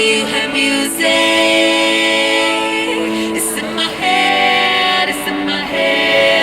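Live band performing a pop-rock song with a singer's voice, long held notes changing every second or so.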